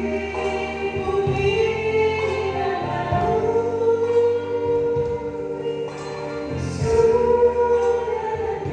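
Choir singing a slow gospel-style song with instrumental accompaniment, the voices holding long notes over a steady bass.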